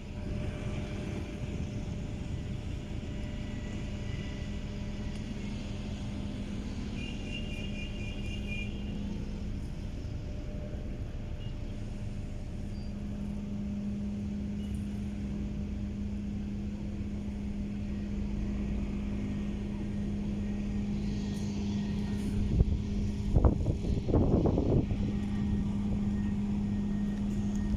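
Quad bike engines running steadily, with a constant low hum, growing louder and rougher for a couple of seconds near the end.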